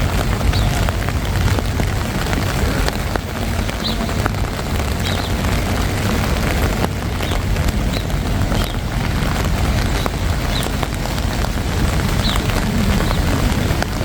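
Steady outdoor city ambience of traffic and wind on a bridge: a continuous low rumble under a wet hiss, with faint short high chirps every second or so.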